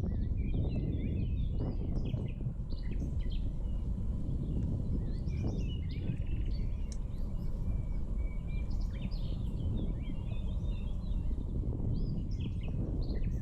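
Small birds chirping and twittering on and off over a steady low rumble.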